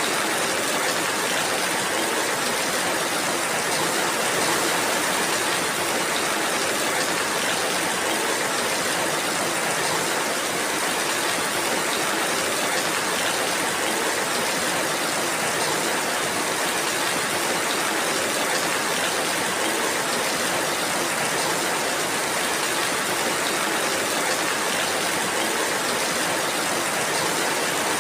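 Steady rainfall: an even, unbroken hiss with no single drops, gusts or thunder standing out.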